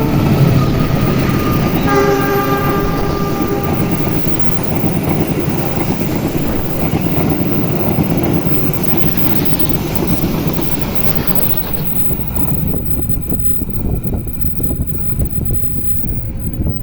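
A train horn sounds briefly about two seconds in. It is followed by the continuous rumble of a train passing close by, which fades toward the end.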